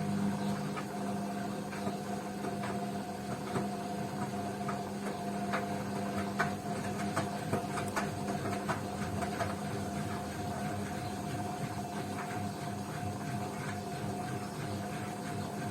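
Beko washing machine running mid-cycle: a steady machine hum with many small irregular clicks and taps over it, busiest in the middle.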